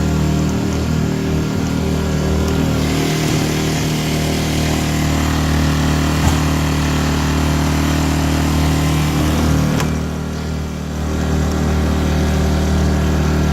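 Small portable generator engine running steadily at a constant speed, with a brief dip in level a little after ten seconds in.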